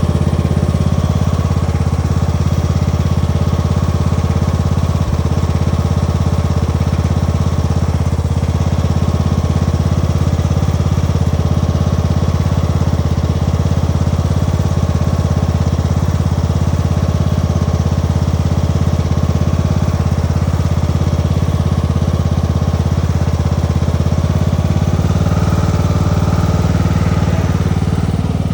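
Tractor engine idling steadily, with a small shift in its tone near the end.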